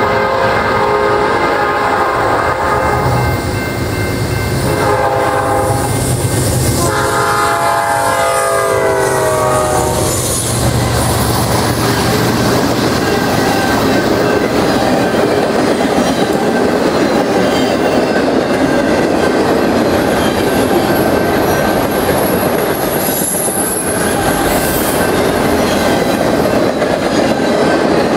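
Train horn on the leading Norfolk Southern C40-9W sounding three blasts as the locomotives approach, the last falling in pitch as they pass, over the rumble of the diesel engines. About ten seconds in, the horn ends and a long string of autorack cars rolls past with steady wheel clatter and rushing noise.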